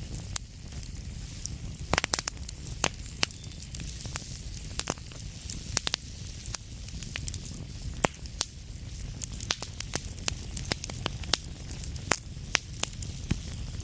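Wood fire burning in a fireplace: sharp crackles and pops at irregular intervals, several a second at times, over a steady low rumble of the flames.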